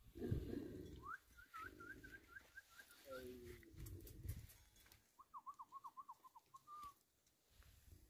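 A bird calling in two quick runs of short, repeated chirps, about seven a second: one run about a second in, another just past the middle. Faint low rumbling sits under the first half.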